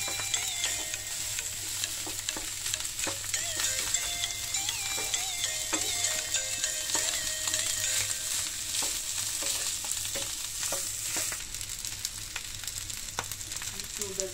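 Rice with mushrooms frying in oil in a nonstick pan, sizzling while a wooden spatula stirs and tosses it, with frequent short taps and scrapes of the spatula on the pan. It gets a little quieter in the last few seconds.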